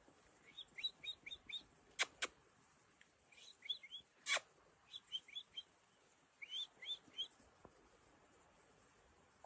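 Bird chirping in quick runs of four or five high notes, four runs in all, with sharp clicks about two seconds in and again a little past four seconds, over a steady high hiss.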